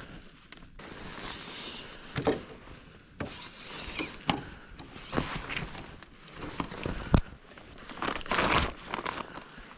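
Footsteps crunching in snow, a step about every second.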